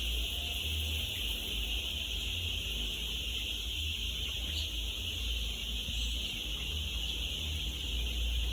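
Thousands of young laying-hen chicks peeping all at once, a dense, steady high-pitched chorus, over a continuous low rumble.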